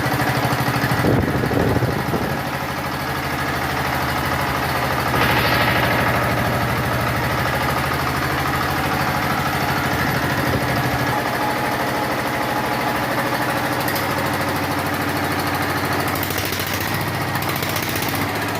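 A 12 hp engine driving a 7.5 kVA generator, running steadily with an even hum. Its tone shifts slightly about two-thirds of the way through.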